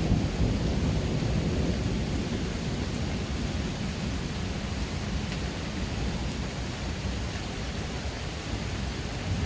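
Steady rush of water with a deep low rumble and no separate strokes or birdsong standing out.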